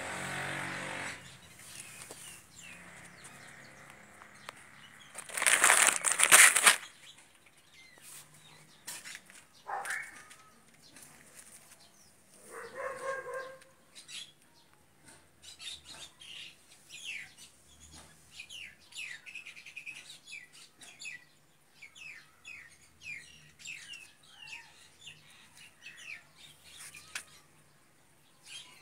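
Small birds chirping, many short, quick calls coming thick through the second half. Early on a vehicle engine fades out, and about six seconds in a loud rushing noise lasts about a second.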